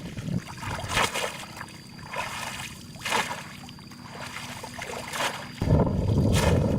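Water splashing and trickling in short separate bursts. Near the end a loud low rumble of wind on the microphone cuts in suddenly.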